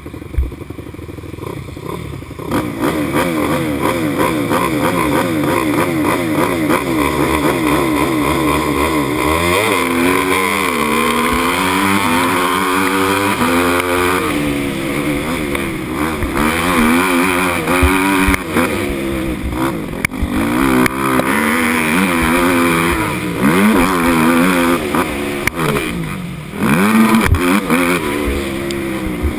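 Motocross dirt bike engine at race pace, its pitch repeatedly climbing and dropping with throttle and gear changes. It gets sharply louder about two and a half seconds in.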